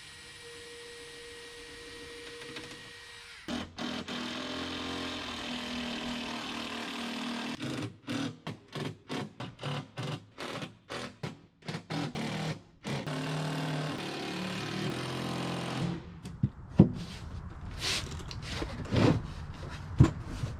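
Power drill running, first in a long run and then in a series of short trigger pulses, as when driving screws into wood. Several sharp knocks follow near the end.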